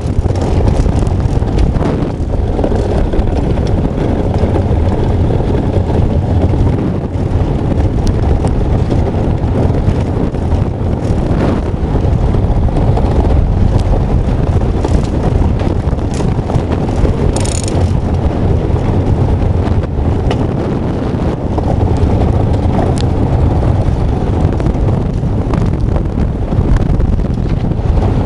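Heavy wind rumbling on the microphone, steady and loud, with a short high squeak about two-thirds of the way through.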